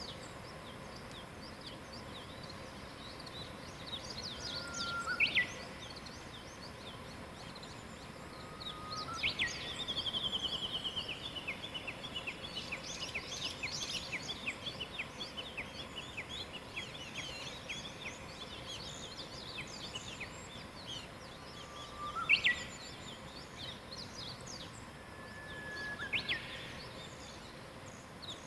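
Wild songbirds singing in the morning. One bird repeats a song four times: a short held whistle, then a loud, quick downward-swept phrase. Other birds chirp and trill over a steady light hiss.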